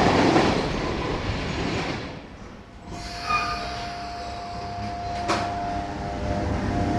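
Railway train noise: the rumble of a train fades away, then a steady high-pitched whine sets in from about three seconds in, with a single sharp knock near the end, as the rumble builds again.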